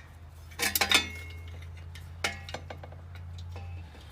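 Small metal parts clinking: a quick cluster of sharp metallic clinks with a brief ring about a second in, and another single clink a little after two seconds. Under them runs a steady low hum that stops near the end.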